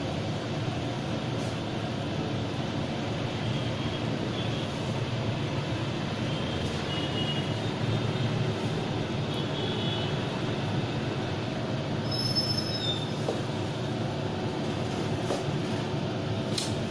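Steady low rumble of heavy vehicles and road traffic, with a few brief faint high squeaks through the middle and a short high squeal about twelve seconds in.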